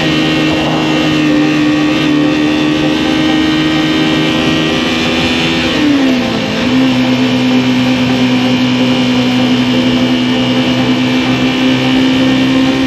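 Motorcycle engine running steadily under way, with a brief dip in engine pitch about halfway through before it settles at a slightly lower steady pitch.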